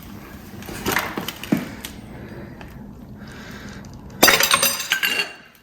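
Metal tools and parts knocking lightly, then a loud metallic clatter with ringing about four seconds in that lasts about a second, as a stuck part on a motorcycle is worked loose by hand.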